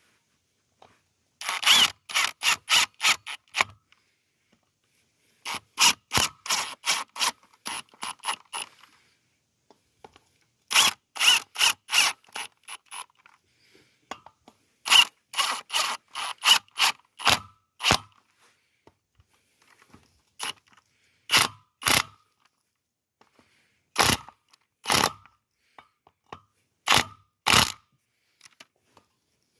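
Hand ratchet wrench clicking while tightening the sprocket bolts: quick runs of clicks with pauses between, thinning to a few separate clicks near the end as the bolts snug down.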